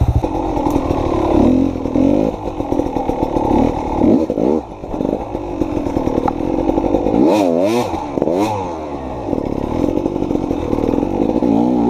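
Dirt bike engine revving up and down under load on a trail, with several quick rises and falls in pitch about two-thirds of the way through.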